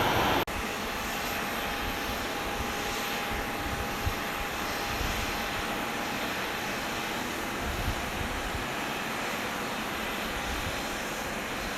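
Jet airliner engines running, a steady rush with a faint steady whine through roughly the first half. A louder stretch of the same noise cuts off abruptly about half a second in.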